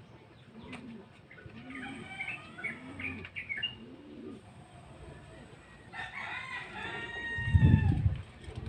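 A rooster crows once about six seconds in, over a dove cooing in a steady repeating rhythm and small birds chirping. Near the end comes a short loud low rumble.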